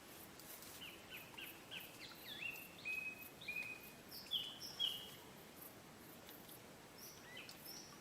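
A songbird singing: a phrase of short, clear whistled notes, some sliding in pitch, over faint outdoor background hiss, with a few more notes near the end.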